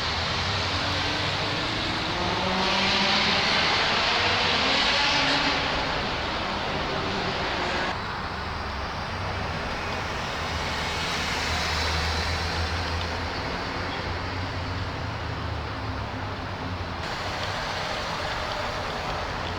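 Car engines running in a parking area, with one car pulling past, louder and rising in pitch, about three seconds in. The sound changes abruptly twice, like edit cuts between shots.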